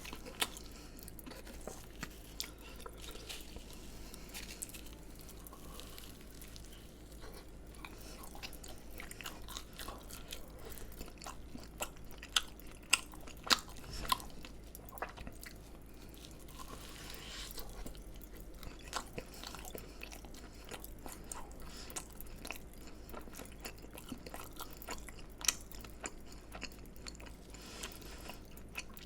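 Close-miked eating: crunchy bites and chewing of fried food, with fine crackles throughout. A few loud, sharp crunches come in a cluster about twelve to fourteen seconds in, and one more near the end.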